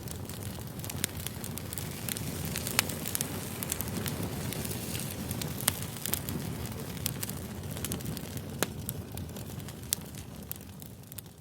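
Campfire crackling: a steady rush of burning wood with frequent sharp pops, fading out near the end.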